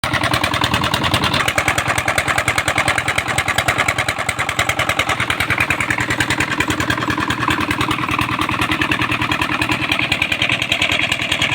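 Tractor engine running steadily with a fast, even throb. It cuts in abruptly at the start.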